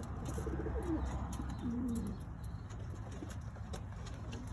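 Domestic loft pigeons cooing: a few low, wavering coos in the first two seconds, fainter after.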